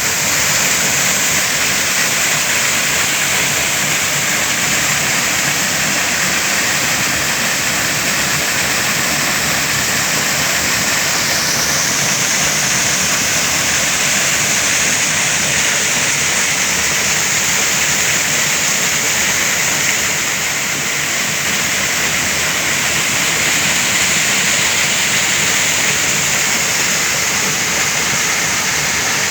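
Waterfall rushing, a loud, steady, even sound of falling water, with a slight shift in its tone about eleven seconds in.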